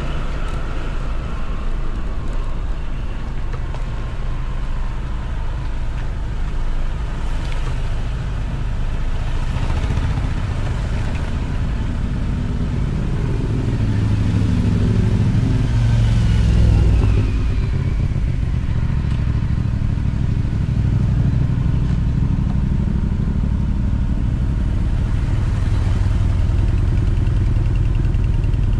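Motorcycle engine running steadily while being ridden; its note rises and falls about halfway through.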